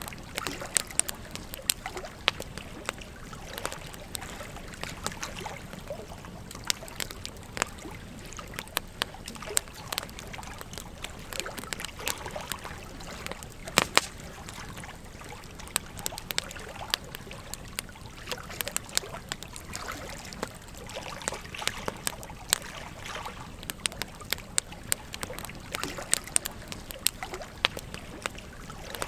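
Campfire crackling with frequent sharp, irregular pops over the steady rush of a gently flowing stream.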